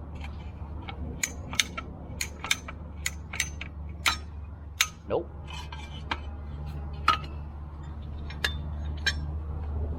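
Truck engine running low and steady under a series of sharp metallic clinks and clicks, about a dozen spread over ten seconds, during an attempt to pull a sign post out with the truck that does not free it.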